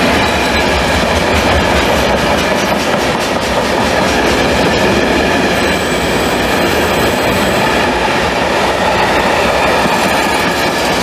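Loaded intermodal freight wagons, pocket wagons carrying lorry semitrailers and a tank container, rolling past at speed: a steady loud rumble of steel wheels on rail, with clicks as the wheels cross rail joints.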